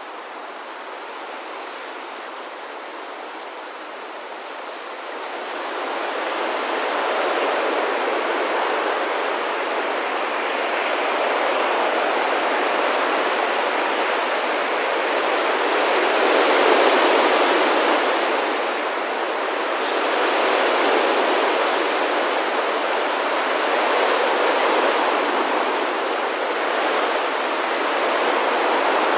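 Rushing whoosh of a large flock of starlings in a murmuration, thousands of wingbeats blending into a sound like running water. It swells after a few seconds and surges loudest a little past the middle.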